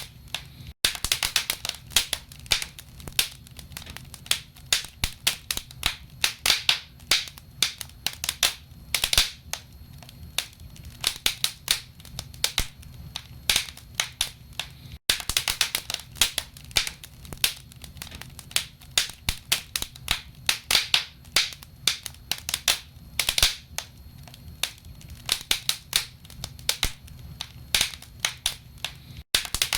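Burning logs crackling in a fireplace: a dense, irregular run of sharp snaps and pops of varying loudness over a steady low background.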